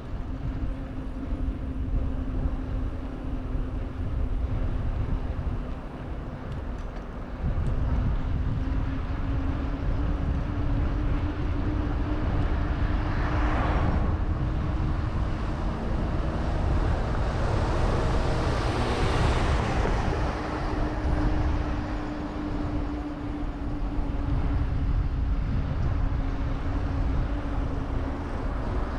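Riding noise on a bicycle: low wind rumble on the microphone with a steady hum, and traffic passing, one vehicle going by about 13 seconds in and a louder one around 19 seconds.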